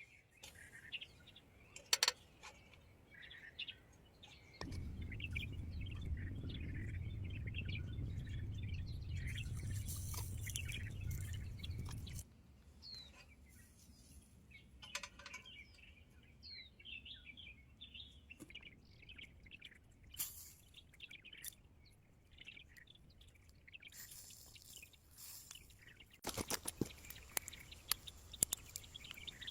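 Small birds chirping and twittering. A steady low rumble runs for about eight seconds a few seconds in, and a run of quick clicks and crackles comes near the end.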